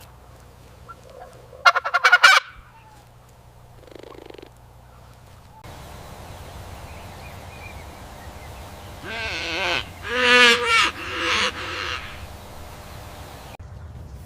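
Farm birds calling: a short burst of loud calls about two seconds in, then a run of several calls around ten to twelve seconds in.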